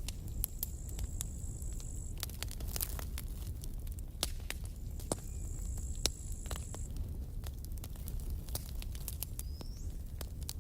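Campfire burning: wood crackling and popping in irregular sharp snaps over a low, steady rumble of flame. A thin high whine comes in twice for about two seconds each time.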